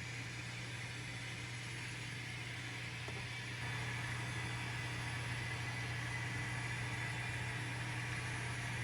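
Diesel engine sound from an N scale model locomotive's sound decoder, running steadily through the model's small speaker after being rebooted when it cut out on a dead spot at a switch frog. It steps up a little louder about three and a half seconds in.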